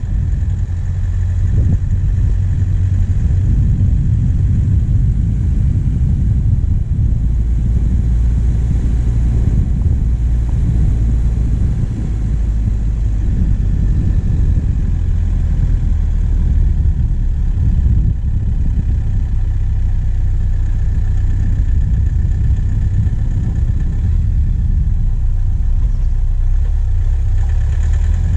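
Diesel engine of a safari vehicle running steadily under way, heard close up from the bonnet, with a deep steady rumble.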